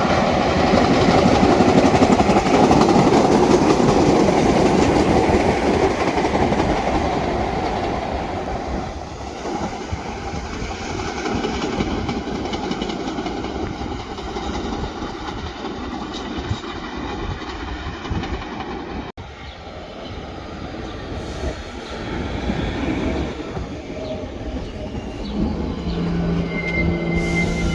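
New York City subway train running past on the tracks, its wheels clattering over the rail joints, loudest in the first few seconds and then fading. After an abrupt cut about two-thirds through, train noise continues with steady squealing or whining tones near the end.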